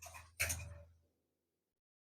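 One short, faint click about half a second in, then dead silence.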